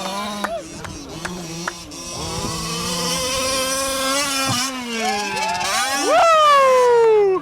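Small gas two-stroke engines of Losi FIVE-T 1/5-scale RC trucks revving up and down, several at once with their pitches crossing, plus a few sharp clicks early on. Near the end the loudest rev climbs sharply and then falls away, stopping suddenly.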